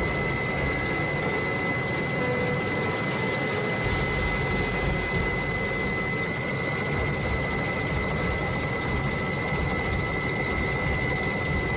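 Steady machine noise, a constant hiss with a thin high whine held throughout, of the kind made by an aircraft or helicopter turbine.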